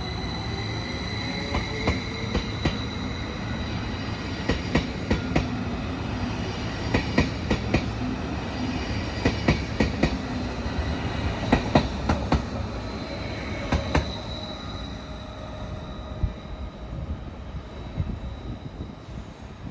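A train running past on the tracks, its wheels clacking in quick pairs over rail joints and points, with a high steady whine. The clacking stops and the noise dies down after about fourteen seconds.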